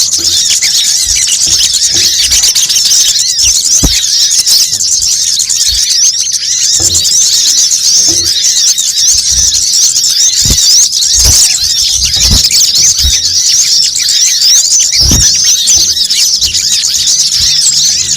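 Dense, layered chorus of sunbird calls from a bird-lure recording: rapid, high-pitched twittering chirps pile over one another without a break. Scattered low thuds sound underneath.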